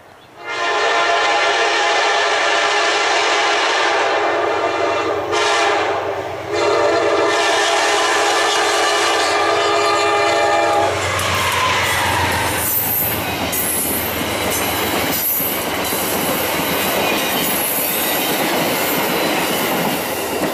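A diesel locomotive's multi-chime air horn sounds long blasts as a passenger train approaches, with a short break about five seconds in. At about eleven seconds the horn stops, and the train passes close by with a loud rumble, wheels clattering on the rails and some high wheel squeal.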